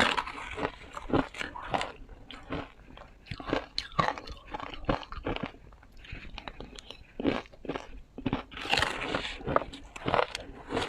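Ice being bitten and chewed: irregular crunching, with a dense run of crunches about nine seconds in.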